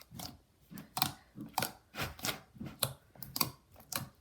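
Slime being squished and worked by hand, giving a string of irregular sharp clicks and wet pops, a couple each second.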